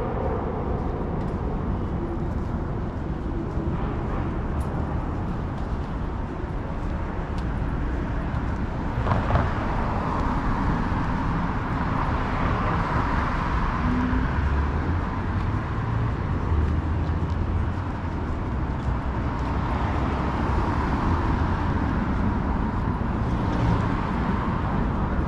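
City street traffic: a steady wash of passing cars and engine noise.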